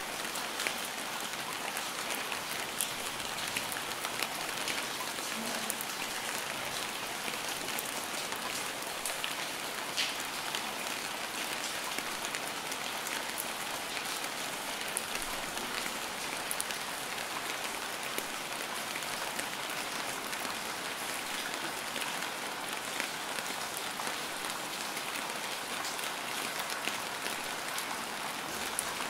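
Steady rainfall: a dense even hiss of rain on a surface, with individual drop ticks scattered through it.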